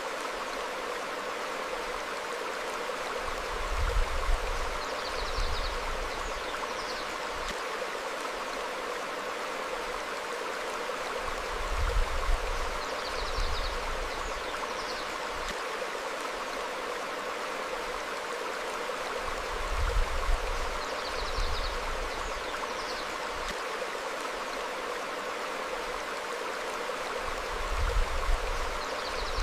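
Stream flowing steadily over rocks, with low rumbling swells about every eight seconds and faint high bird chirps now and then.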